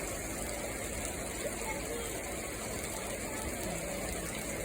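Steady rushing noise of water in a heavy rainstorm, with faint voices in the background.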